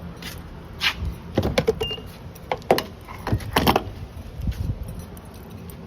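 A series of sharp clicks and clunks, with some jangling: handling at a car at a gas pump, such as a door and keys.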